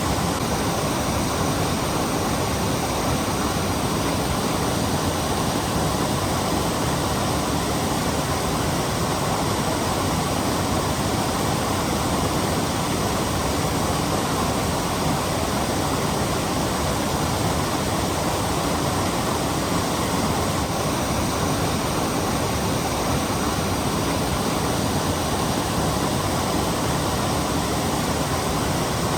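Waterfall rushing steadily, a loud, unchanging wash of falling water.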